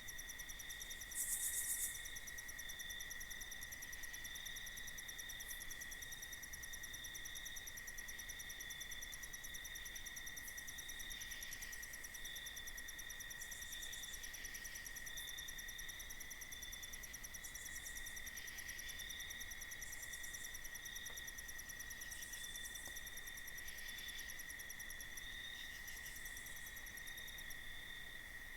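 Night insect chorus of crickets and other insects: several overlapping high-pitched trills running steadily. A brief, louder high-pitched buzz comes about a second in, and fainter short bursts recur later.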